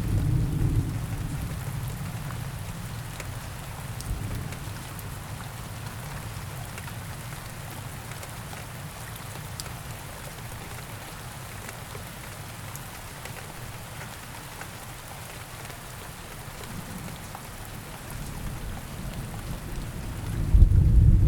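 Steady rain falling, an even hiss with scattered drop ticks. A deep thunder rumble dies away at the start, and another rumble builds near the end to a loud peak.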